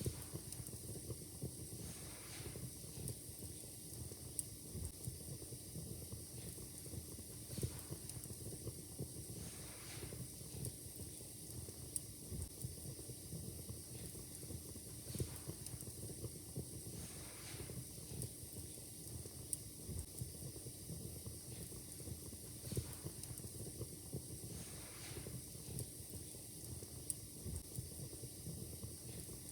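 Wood fire in a fireplace crackling: scattered sharp pops and snaps over a steady low hiss.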